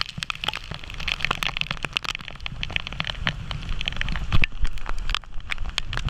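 Heavy rain, with many sharp drops hitting close by in quick, irregular succession over a steady low rumble.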